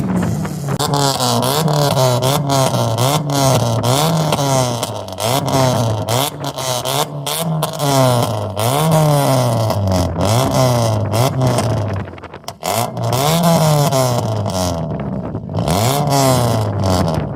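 A car engine revved in quick repeated blips of the throttle, its pitch climbing and dropping over and over, with a brief pause about two-thirds of the way through before the revving starts again.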